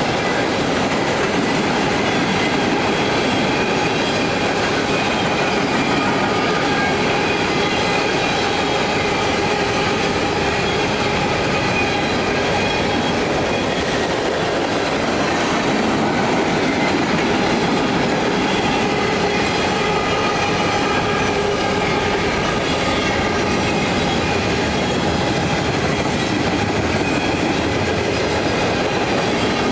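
Freight cars of a passing train rolling by at steady speed: continuous loud rumble and clickety-clack of steel wheels over the rail joints, with faint steady high tones over it.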